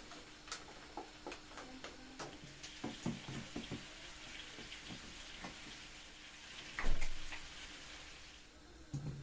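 Household cleaning sounds: light scattered knocks and clatter of objects, with water running from a tap for several seconds and one louder knock about seven seconds in.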